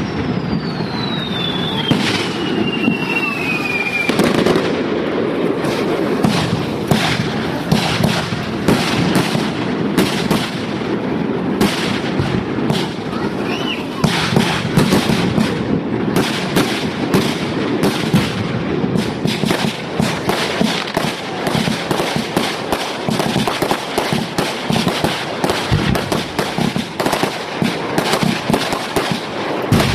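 Fireworks going off in a rapid, continuous barrage of bangs and crackle. A whistle falls in pitch over the first four seconds.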